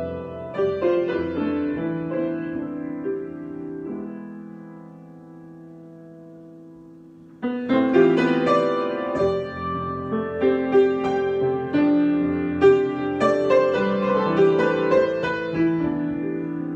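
Solo piano improvisation. A chord is held and fades for a few seconds, then the playing comes back loud about seven seconds in with busier chords and notes.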